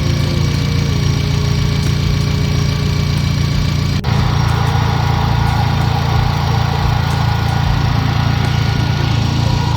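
An engine idling steadily, with a sudden break about four seconds in where the sound cuts to another steady engine idle.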